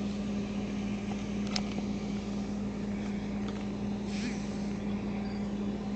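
Steady hum of an idling vehicle engine, with a single sharp click about one and a half seconds in.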